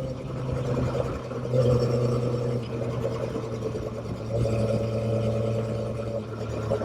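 Motorcycle engine running while riding, a steady pitched drone that shifts in pitch about one and a half seconds in and again a little past the middle.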